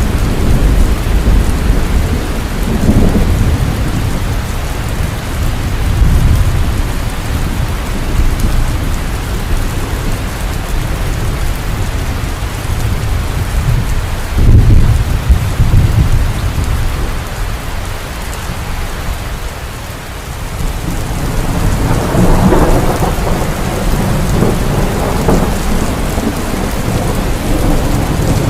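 Heavy rain falling steadily, with rolling thunder rumbling underneath. The deepest, loudest roll comes about halfway through, the storm eases briefly about two-thirds of the way in, and then a long rumble builds again to the end.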